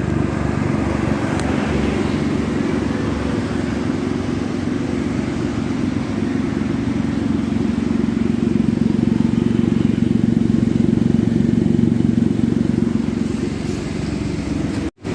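Daihatsu Ayla's engine running through an aftermarket JS Racing exhaust, giving a deep, dry bass note. It runs steadily, swells a little in the middle, and cuts out for an instant near the end.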